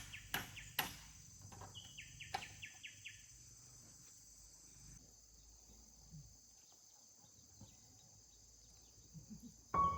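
Steady high-pitched insect chirring from crickets or cicadas, with a few sharp knocks in the first couple of seconds and a brief chirp sequence around two to three seconds in.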